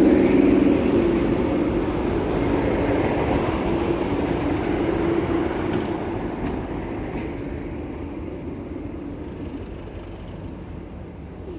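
Class 97 diesel locomotive train passing and drawing away, its steady engine note and rail rumble fading gradually.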